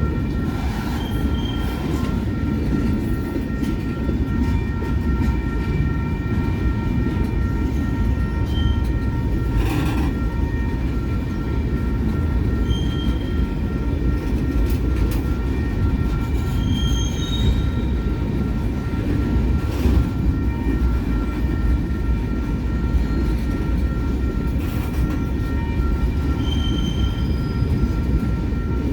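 Freight train cars rolling past in a steady rumble, with wheels squealing in several steady high tones and short higher squeals here and there.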